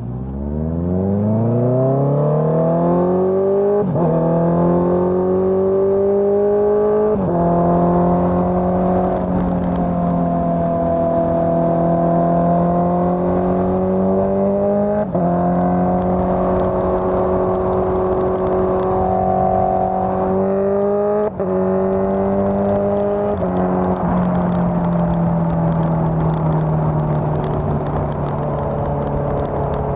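Honda CBR650R's inline-four engine through a Dominator GP full-system exhaust, revving hard as the bike accelerates, with brief breaks in the note for gear changes about 4, 7, 15 and 21 seconds in. It then holds a steady cruise, the pitch slowly falling near the end.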